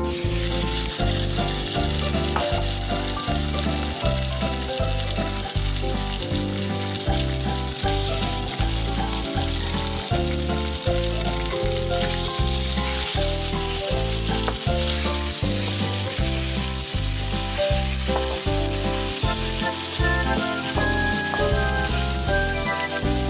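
Sliced pork sizzling in hot oil in a nonstick frying pan, the sizzle starting at once as the meat goes in and continuing as it is stirred with a wooden spatula. Background music with a steady beat plays underneath.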